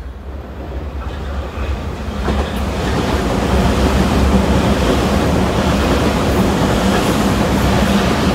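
Tobu 100 series Spacia electric limited-express train running past close by: rumble and clatter of wheels on rails, growing louder over the first few seconds and then holding steady, with a steady low hum underneath.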